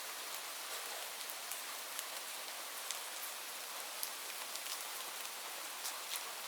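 Steady rain falling, an even hiss with scattered sharp drips of individual drops.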